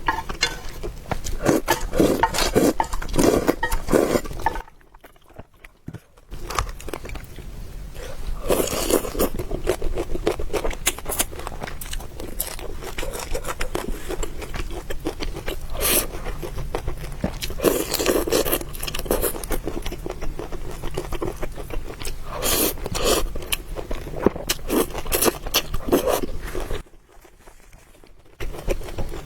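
Close-miked eating: continual chewing and biting with irregular crunchy clicks, broken by two short pauses.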